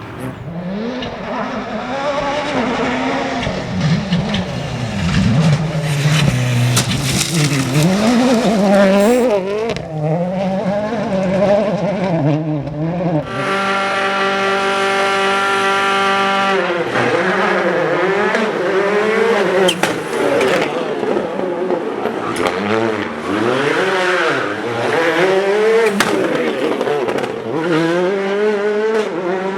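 Rally car engines revving hard, pitch climbing and dropping with throttle lifts and gear changes. About thirteen seconds in, an engine holds one steady high note for about three seconds before the revs start rising and falling again.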